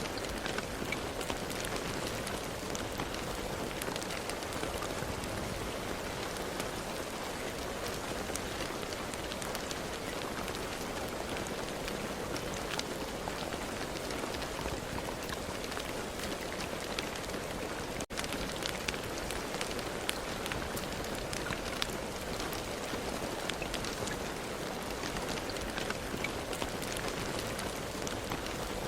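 Steady rain falling, an even hiss with many separate drops ticking on a surface. A split-second gap breaks it about two-thirds of the way through.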